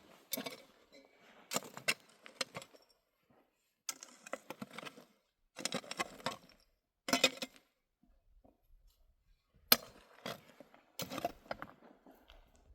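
Bursts of clinking and rattling as hard objects are handled, separated by short pauses, with one sharp knock about three quarters of the way through, the loudest sound.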